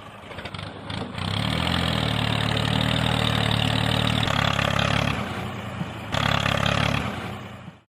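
An engine starting and then running steadily at idle, easing off briefly a little past halfway and picking up again before it cuts off abruptly near the end.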